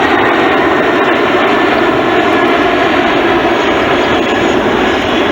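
Boeing E-4B Nightwatch's four General Electric CF6 turbofans passing low and slow, held at high thrust against the drag of its slow-flight configuration. Loud, steady jet noise with no breaks.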